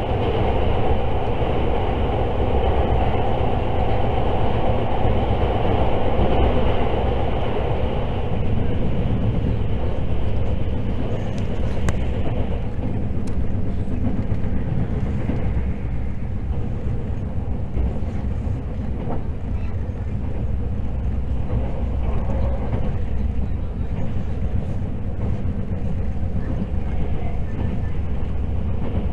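Inside a Hakutaka limited express electric train running at speed: a steady rumble of wheels on rail, louder and hissier at first while the train is in a tunnel, then quieter from about ten seconds in once it comes out into the open.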